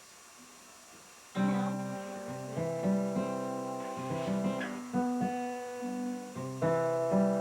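Acoustic guitar: after a short pause, chords start being strummed about a second and a half in and ring on, changing several times. The strings are old, and the player says the guitar still sounds dull.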